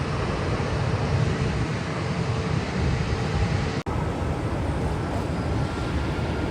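Jet aircraft engines running, a loud steady rumble, cut off for a split second a little under four seconds in before it carries on.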